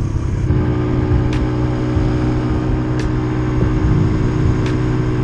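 Dirt bike engine running at a steady pitch and constant throttle while riding.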